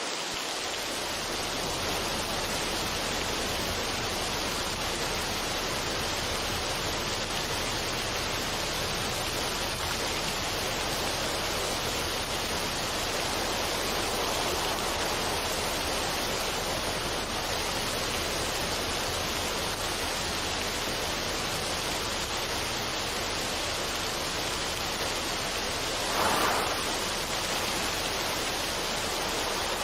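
Steady, even rushing noise with no tune or rhythm, with a brief louder swell about 26 seconds in.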